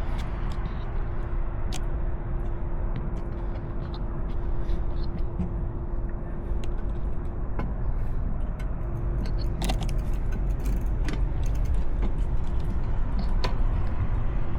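Road traffic and a low wind rumble from a moving bicycle ride, with a steady hum that drops out for about a second midway and scattered small clicks and rattles.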